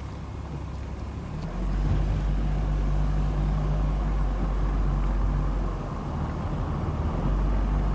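Car engine and road noise heard from inside a moving car. It grows louder a couple of seconds in, eases off briefly about six seconds in, then picks up again.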